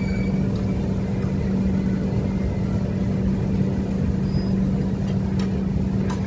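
Train running: a steady rumble with a constant low hum, and a few faint clicks near the end.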